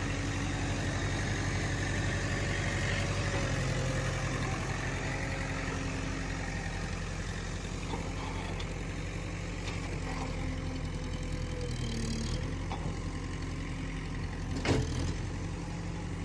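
Heavy diesel engine running steadily at a low speed, with one sharp knock near the end.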